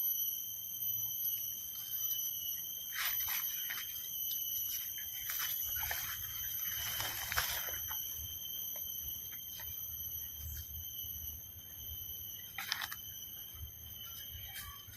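Faint outdoor ambience: a soft low wind rumble and a few brief rustles, over a steady high-pitched whine of several thin tones.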